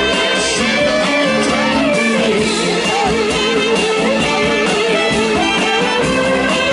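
Live blues-rock band playing an instrumental passage, a lead melody wavering and bending in pitch over the guitars and rhythm section.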